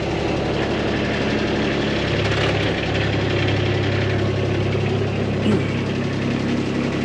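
Vehicle engine running steadily while driving, its note shifting lower about two seconds in.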